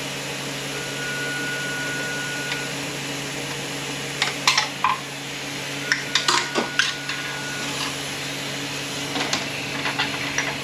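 Sharp metallic clicks and clinks of hand tools and steel parts as an automatic transmission is taken apart, most likely a snap ring and spacer being pried out, over a steady background hum. A thin, steady high tone sounds briefly twice.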